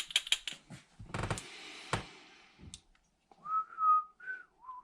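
A few light clicks and a thump with a short fading hiss, then a person whistling four short notes in the second half, the loudest sound here.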